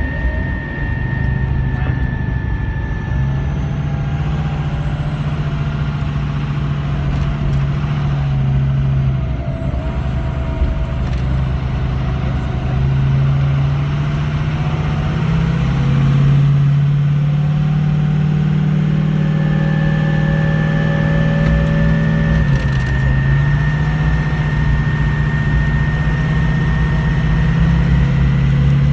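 Ford F-250's 6.0-litre Power Stroke turbo-diesel V8 running while driving, a steady drone that shifts in pitch several times, with a thin high whistle rising slowly above it.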